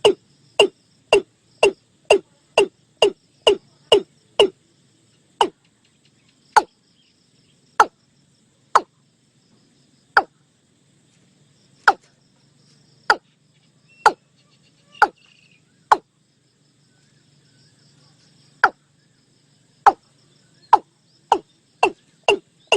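Watercock (Gallicrex cinerea) calling a series of short, sharp notes, about two a second at first, slowing to about one a second in the middle with a pause of nearly three seconds, then quickening again near the end.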